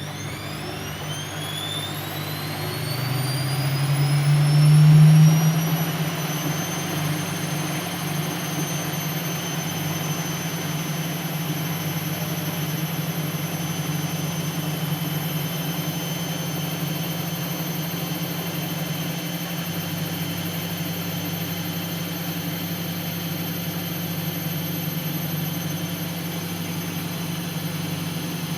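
Siemens Siwamat C10 washing machine spinning up. The motor's whine rises in pitch over the first six seconds and the machine is loudest about five seconds in; then it settles into a steady high-speed spin with an even whine and hum.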